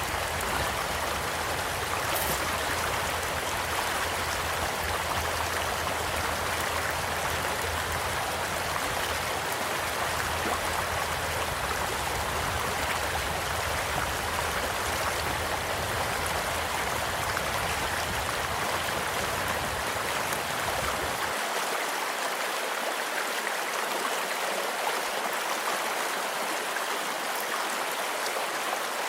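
Small stream flowing steadily, with a few faint crackles from a campfire. A low rumble underneath cuts off suddenly about two-thirds of the way through.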